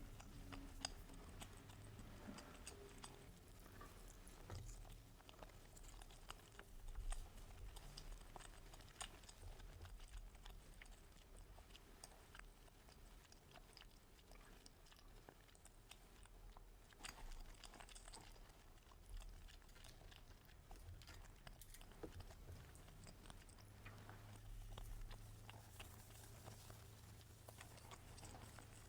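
A person eating: faint chewing and biting with scattered small clicks.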